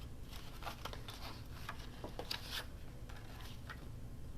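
Faint rustling and light scattered taps of paper scraps being handled and sorted through.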